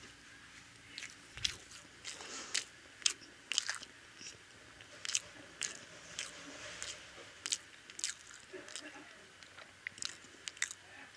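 Close-up eating of egg toast: biting and chewing, with irregular sharp mouth clicks one to three times a second.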